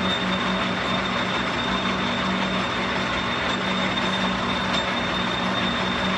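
Metal lathe running steadily while taking a light smoothing cut on an axle, a steady hum with a thin high whine over it.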